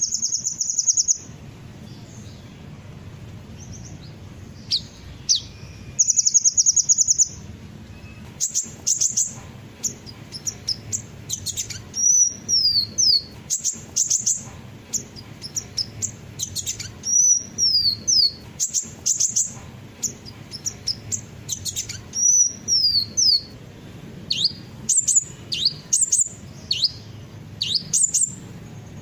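Sunbirds singing in a rapid, high-pitched string of sharp chirps and quick downward-sweeping notes, broken by a dense buzzy trill about six seconds in. A steady low hum runs underneath.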